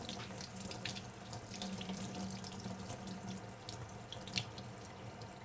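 Kitchen sink tap running steadily while dishes are washed by hand, with a few light knocks, the loudest about four and a half seconds in.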